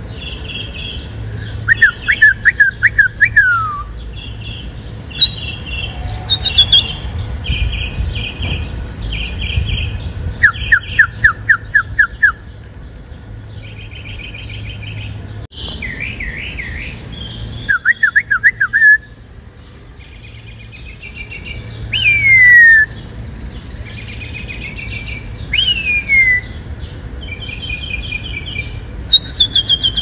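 A songbird and a person trading whistles: varied whistled phrases, fast series of sweeping trilled notes and short repeated chirps, the bird answering each whistle with a different one. Two loud falling whistles come about three-quarters of the way in.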